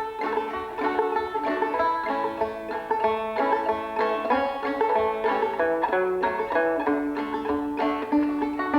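Fast-picked banjo music, rapid plucked notes, with a thin, old film-soundtrack tone.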